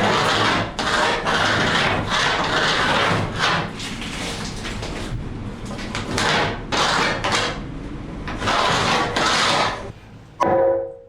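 Hardwood beam being shaped by hand with back-and-forth scraping strokes, about one stroke a second, irregular and noisy. It is trimmed to fit snugly into its notches.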